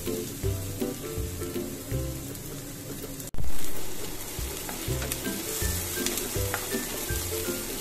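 Diced onion sizzling in hot oil in a nonstick frying pan, stirred with a spatula. About three seconds in the sound drops out for an instant, then the sizzle comes back louder and settles.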